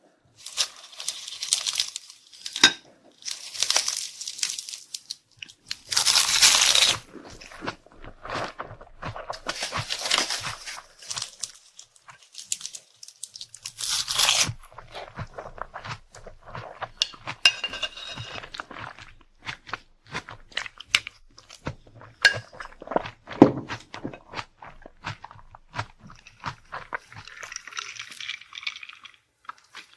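Close-miked eating sounds: crunchy food bitten and chewed, with several noisy bursts in the first half, the loudest about six seconds in, then a run of quick small clicks of chewing.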